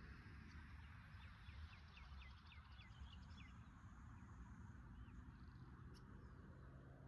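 Faint bird calling: a quick run of about eight short, high, curved notes over roughly two seconds, over a low background rumble.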